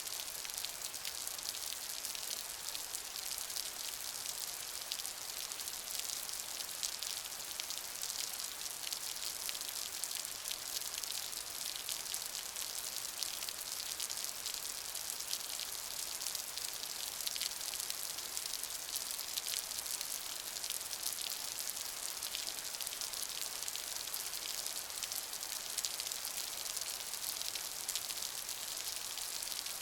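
Steady rain falling, a dense even hiss of many fine drop ticks.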